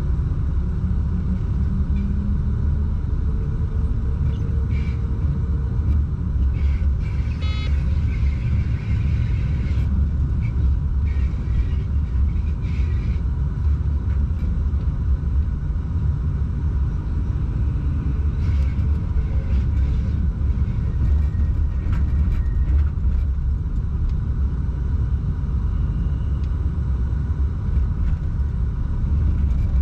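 Train running at speed, heard from inside the locomotive's cab: a steady low rumble with a tone that rises in pitch over the first few seconds. A few short ticks and rattles come in the middle.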